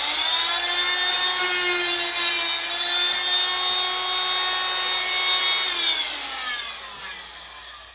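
Power saw cutting through ceiling drywall for a register opening: the motor runs at a steady pitch, then winds down in a falling tone about six seconds in as the cut finishes and the trigger is released.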